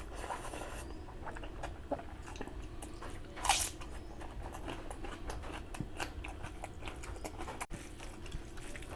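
Close-miked chewing of a mouthful of curry and rice: wet smacks and small irregular clicks from the mouth, with one louder, sharper crunch or bite about three and a half seconds in.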